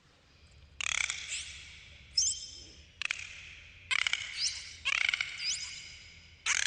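Dolphins whistling and clicking: several bouts of rapid click trains and buzzing pulses, with short rising whistles in between.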